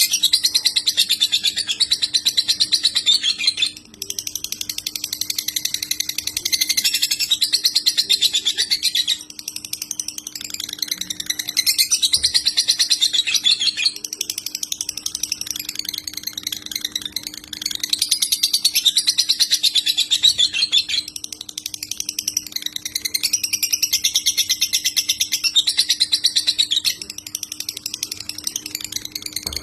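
Lovebird singing in long runs of rapid, high chirping, each run lasting several seconds with short breaks between. This is the continuous trilling 'konslet' song that keepers prize. A faint steady low hum lies underneath.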